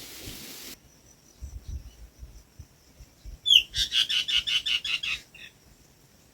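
A small bird calling: one short rising note, then a fast trill of about ten notes lasting about a second and a half. A steady rain-like hiss cuts off abruptly under a second in.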